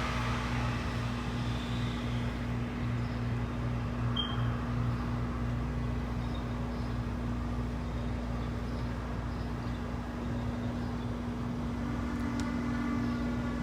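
Hydraulic elevator power unit running in the machine room: the pump motor hums steadily with a low rumble, as the car is driven up. A few higher tones join the hum near the end.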